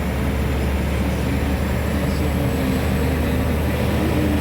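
Scania P124 truck's inline-six diesel engine running steadily under way, a continuous low drone.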